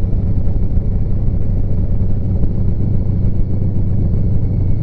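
Harley-Davidson Street Glide Special's V-twin engine running steadily as the motorcycle rides along, a loud, even, low-pitched sound with no change in speed.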